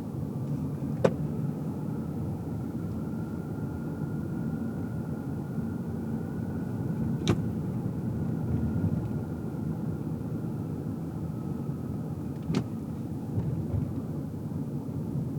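A car driving, heard from inside the cabin: a steady low rumble of road and engine noise with a faint slowly wavering whine. Three sharp clicks come about a second in, about halfway through and near the end.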